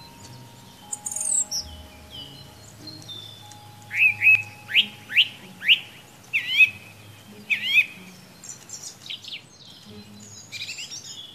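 A thrush singing a varied song: a run of sharp, loud, repeated notes, then higher twittering phrases near the end.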